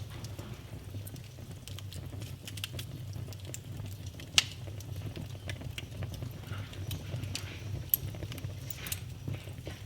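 Wood fire burning in a fireplace: a steady low rumble of flames with scattered crackles and pops, the loudest sharp crack about four seconds in and another near eight seconds.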